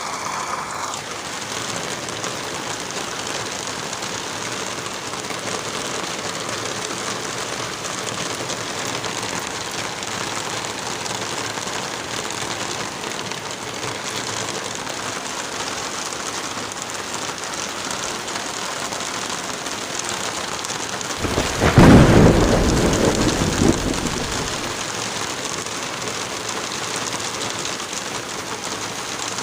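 Steady rain, with one rumble of thunder about three-quarters of the way through that swells suddenly, peaks, and dies away over a few seconds.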